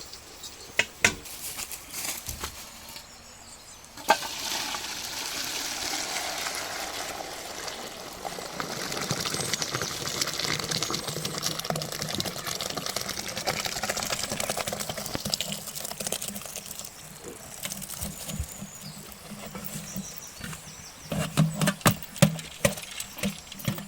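Hot water pouring and splashing off half-boiled biryani rice as the pot is drained, starting about four seconds in and running steadily for over fifteen seconds. A few sharp knocks of the pot or utensils come near the end.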